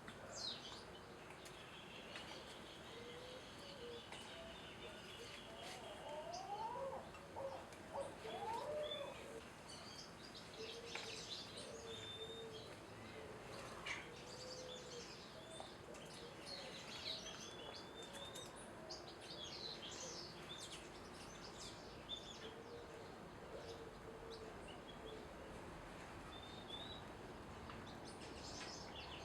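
Several birds chirping and calling: many short high chirps scattered throughout, with a lower-pitched short call repeating underneath.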